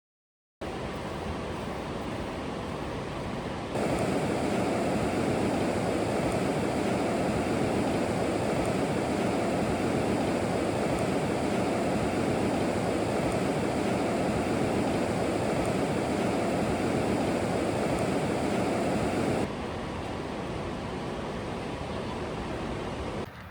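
Steady, even rush of fast-flowing creek water. It starts after a brief moment of silence, becomes much louder about four seconds in, and falls back to a softer level about four seconds before the end.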